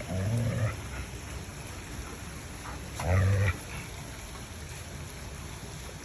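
Dog growling twice during play, two short low growls about three seconds apart.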